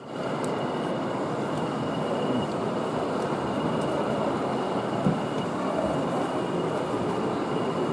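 Steady din of a busy exhibition hall while model trains run on a layout, with a thin high steady tone throughout and a single small knock about five seconds in.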